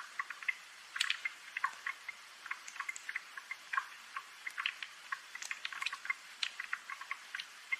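Rain falling, with many scattered drops pattering and dripping irregularly over a light hiss.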